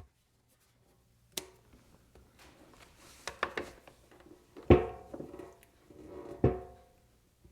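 Workbench handling noises: scattered clicks and knocks, with two louder knocks that each ring briefly, one near the middle and one about two seconds later.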